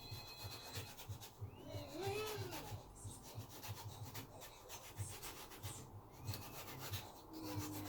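A blade drawing through a cucumber to cut long, very thin slices, heard as quiet, repeated short scraping strokes.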